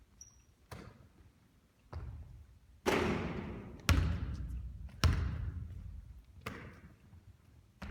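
Basketball bouncing hard on a court during three-point shooting practice: about six sharp thuds spaced roughly a second apart, each trailing off.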